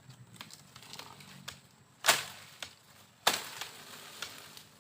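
Two sharp cracks about a second apart, over faint scattered ticks.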